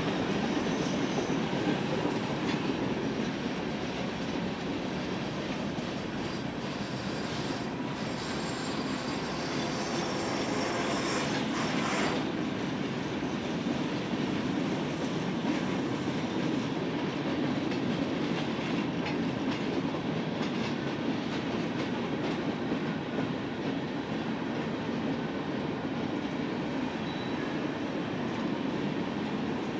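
Freight cars of a long manifest train rolling steadily past, wheels clacking over the rail joints.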